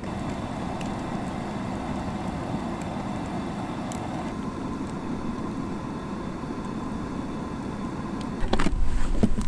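Campfire of logs and paper bricks burning in a fire pit: a steady rush of flames with a few faint crackles. Near the end, a louder low rumble and some sharp crackles or knocks come in.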